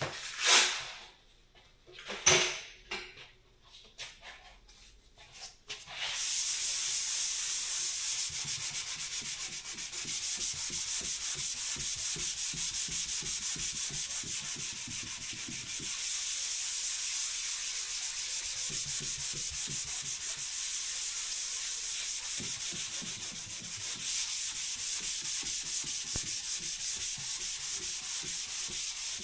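Sanding on a dent repair: a steady scratchy rasp that starts about six seconds in and runs with only brief slackenings. It is preceded by a few sharp knocks.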